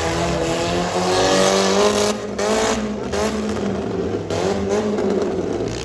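Several four-cylinder demolition derby car engines running and revving in the arena, their pitch rising and falling, with more than one engine heard at once.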